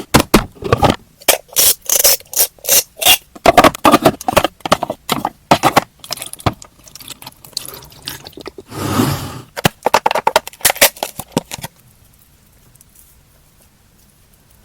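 Small plastic toy pieces and candy packaging handled: a quick run of short scrapes, clicks and crackles, with one longer rustle about nine seconds in, stopping suddenly a few seconds before the end.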